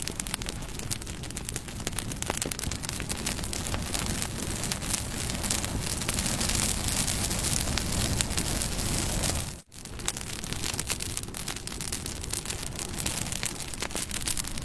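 Bonfire crackling and popping over a steady rushing hiss and rumble of the flames. About ten seconds in, the sound cuts out for a split second and then carries on.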